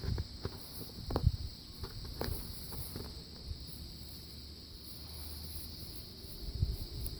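Steady high-pitched insect chirring, with a few soft clicks and a low rumble of handling or movement.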